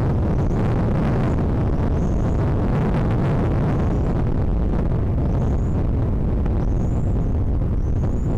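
Steady low rumble of wind buffeting the microphone, with a bird's faint, short high chirps repeating about once a second.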